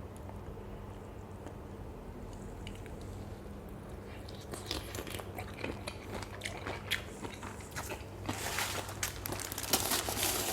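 Someone chewing a crunchy lotus-stem and fresh-shrimp pounded salad close to the microphone. Irregular crunching starts about four seconds in and gets louder and denser near the end.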